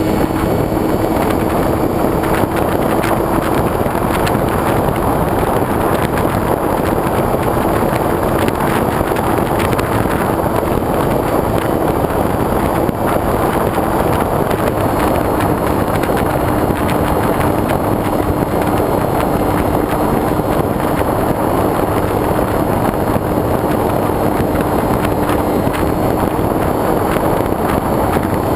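Wind rushing over a wing-mounted GoPro on a foam RC airplane in flight, with the steady hum of its motor and propeller underneath.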